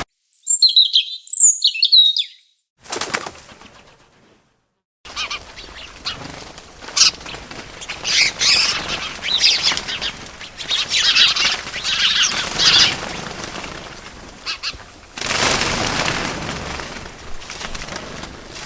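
Two short, high bird chirps, then after a brief pause a long stretch of rustling, fluttering bird wings flapping.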